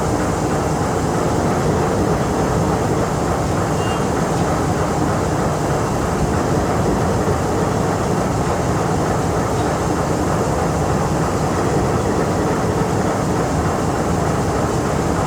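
Diesel engine of a General Electric D16000 locomotive running steadily, an even, unbroken mechanical drone.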